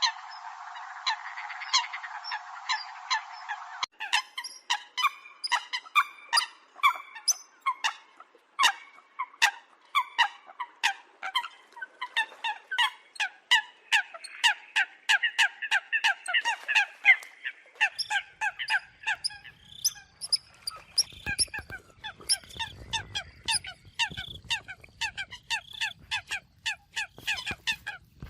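Eurasian coots calling: a rapid, unbroken run of short, sharp calls, several a second and sometimes overlapping. The first few seconds sound thinner, as from a different recording, and a faint low rumble joins in about two-thirds of the way through.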